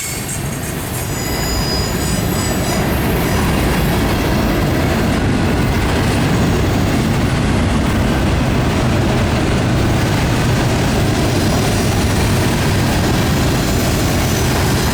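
Train cars rolling past close by, a steady loud rumble of wheels on rail, with a thin high wheel squeal in the first few seconds.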